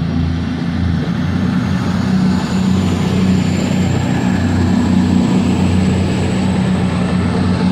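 Diesel multiple unit's engines running loudly close by, a steady low throb with a faint high whine slowly rising in pitch.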